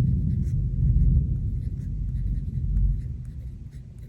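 Deep rolling thunder rumble that dies away after about three seconds, over the faint scratch of a pen writing on planner paper.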